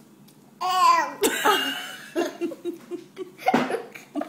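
A high wavering squeal about half a second in, then a run of laughter.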